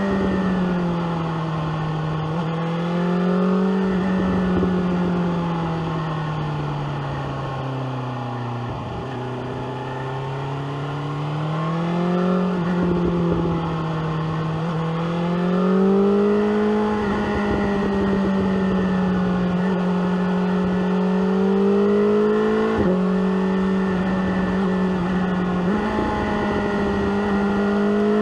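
BMW S1000R's inline-four engine with an SC-Project exhaust, running on the road. Its pitch falls as the bike rolls off and slows, then rises again under acceleration and holds fairly steady. Wind noise runs underneath.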